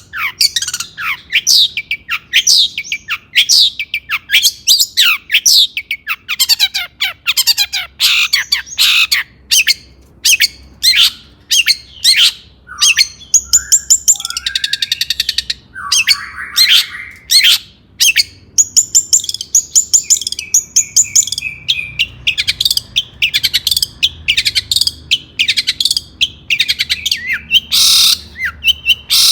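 Long-tailed shrike (cendet) singing busily: a rapid string of sharp whistles that sweep downward, broken by a harsh scratchy chatter about halfway through and buzzy trilled notes after it.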